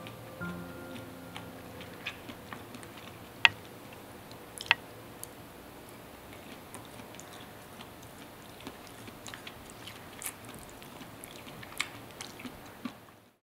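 Someone chewing a bite of smoked sausage, with scattered sharp clicks, the loudest two about three and a half and four and a half seconds in.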